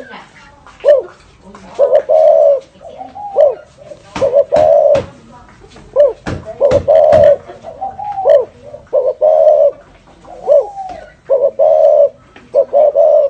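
Spotted dove cooing over and over in its drawn-out 'thổ rền' style: short rising-and-falling notes followed by longer held coos. A few sharp clicks come through about midway.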